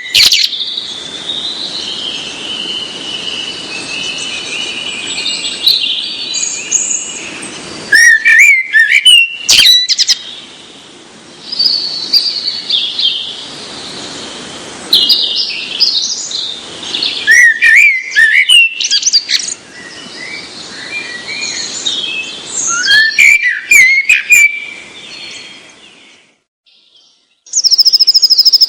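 Small birds chirping and twittering, many high calls overlapping over a steady hiss, broken off abruptly several times.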